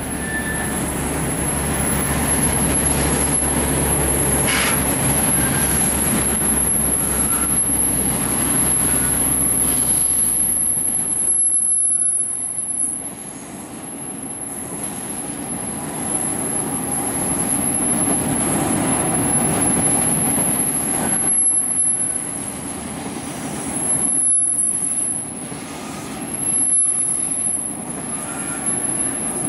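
Freight wagons of a rolling-highway train carrying lorries running past on the rails, a steady rumble and rattle of wheels with a few brief wheel squeals. The deep low rumble drops away about eleven seconds in, and the noise rises and dips as the rest of the wagons go by.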